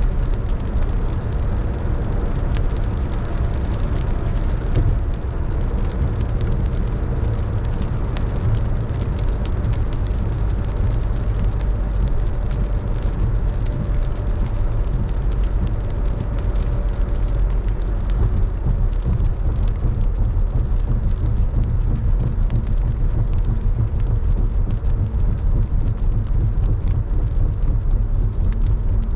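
A car driving in rain: a steady low road rumble, with many light ticks of rain throughout.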